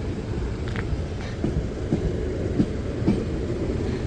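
Eight-car Class 450 electric multiple unit rolling slowly over a level crossing: a steady low rumble with regular clicks about twice a second.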